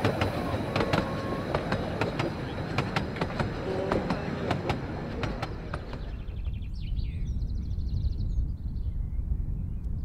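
Narrow-gauge railway carriages rolling past, their wheels clicking and rattling over the rail joints. About six seconds in this gives way to low wind rumble on the microphone and birdsong.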